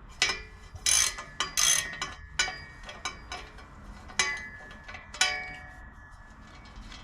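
Metal hand tools clinking and knocking against the exhaust flange bolts, a run of sharp metallic clinks with short ringing tones, the loudest about one, two, four and five seconds in.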